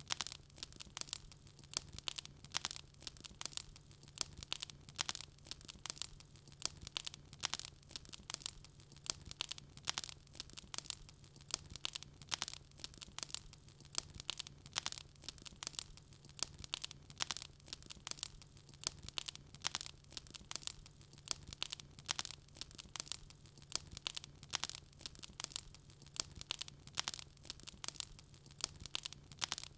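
Wood fire crackling steadily, with many irregular sharp pops and snaps several times a second over a faint steady low hum.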